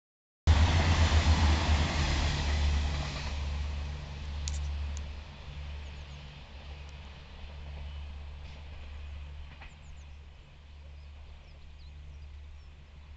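Passenger train passing close by and running off into the distance: a loud rumble and rush that fades over the first few seconds to a low steady rumble.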